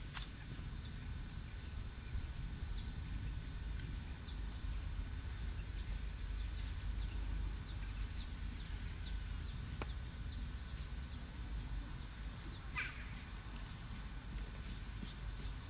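Birds calling outdoors: many short chirps throughout, with a louder call about 13 seconds in, over a steady low rumble of wind on the microphone.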